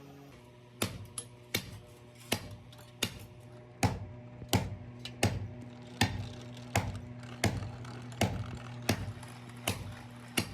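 Hammer blows on sheet steel in a steady rhythm, about one sharp metallic strike every 0.7 seconds, over a low steady hum.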